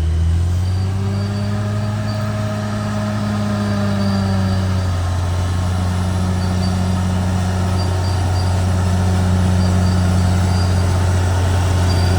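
Bulldozer's diesel engine running steadily under power, holding one pitch and growing slightly louder toward the end.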